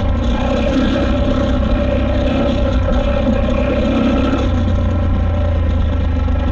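KTM 890 Adventure R's parallel-twin engine running steadily under load as the motorcycle is ridden on a trail.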